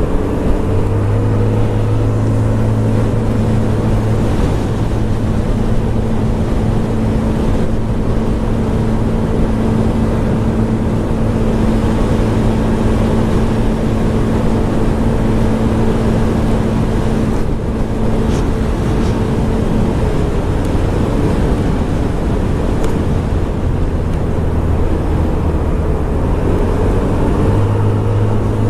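Scomadi TT125 scooter's 125cc single-cylinder four-stroke engine running steadily while riding, under a steady low rumble. The engine pitch rises briefly near the start and again near the end.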